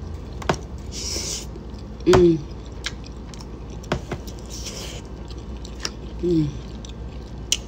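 A person chewing a mouthful of chicken and rice with closed-mouth smacks and clicks, and twice a short falling 'mmm' of enjoyment, about two seconds in and again near six seconds.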